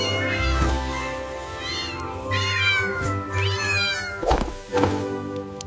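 Cat meowing several times, each call falling in pitch, over background music. Two thumps near the end.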